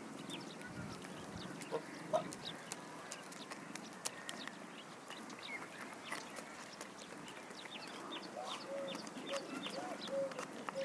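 Birds calling: many short high chirps throughout, with a run of short, low clucking calls in the last few seconds.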